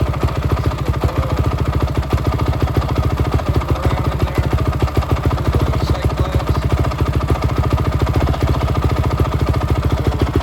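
2005 Honda CRF450 four-stroke single-cylinder dirt bike engine idling steadily after being started for the first time in about six months.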